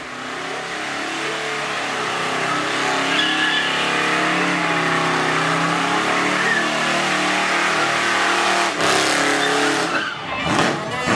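A car engine held at high revs with tyres squealing and skidding, as in a burnout. The sound swells over the first few seconds and stays loud.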